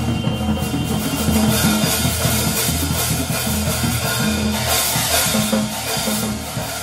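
Band music with a drum kit: cymbals and snare over held bass notes that change every second or so, the whole a little quieter near the end.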